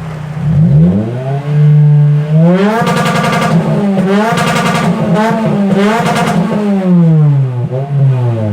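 Toyota 2ZZ-GE 1.8 litre VVTL-i four-cylinder engine free-revving with its muffler unbolted: the revs climb, are held high through several pushes and dips on the throttle, then drop back before rising again near the end.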